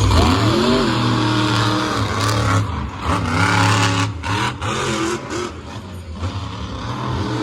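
Monster truck engine revving, its pitch climbing and falling several times over a heavy, steady low running note.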